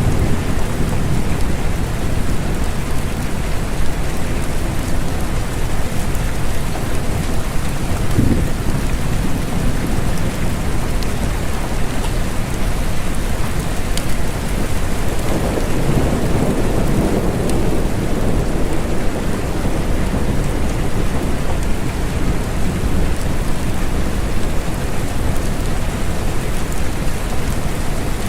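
Steady rain falling, with a low rumble of thunder that swells and fades about halfway through.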